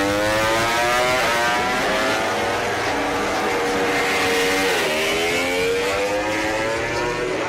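MotoGP racing motorcycle's four-cylinder engine running hard, its pitch rising under acceleration. The pitch dips sharply about halfway and then climbs again.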